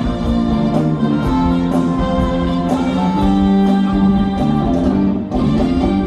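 Live rock band playing an instrumental passage, guitar to the fore over bass and drums with a steady beat.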